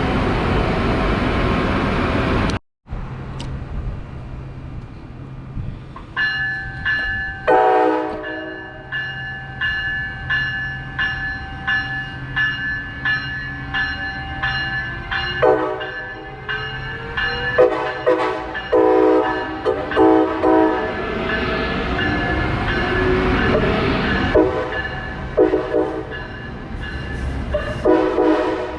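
Train passing with a loud rush of noise, then, after a break, a locomotive bell ringing steadily about twice a second while the train horn sounds a series of blasts, several of them in quick succession.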